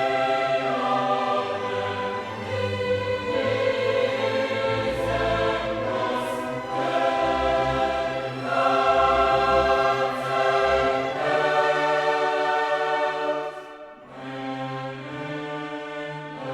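Background music: a choir singing slow, sustained chords with orchestral accompaniment, dipping briefly near the end before resuming.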